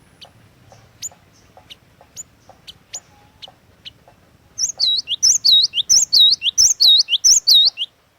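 Cinereous tit (glatik batu) singing: scattered single sharp chip notes, then about halfway a loud, fast run of repeated looping whistled notes that stops abruptly just before the end.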